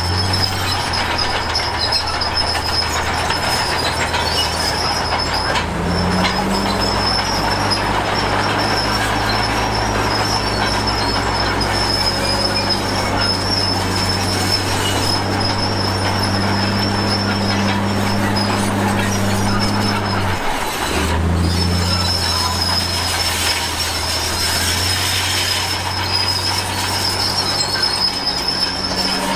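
Komatsu D53P crawler bulldozer working: its diesel engine drones steadily under load over a continuous high squeal and clatter of the steel tracks. The engine note shifts about six seconds in and drops out for a moment near twenty seconds.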